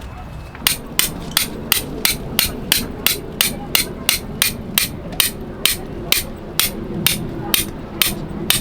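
Tent peg being driven into the ground with a hammer: a steady run of sharp strikes, about three a second, starting a little under a second in.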